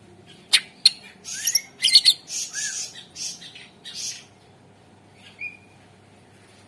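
Cucak ijo (green leafbird) singing: two sharp clicking notes, then a run of harsh, raspy notes mixed with short whistled slurs that stops after about four seconds, and one short call near the end.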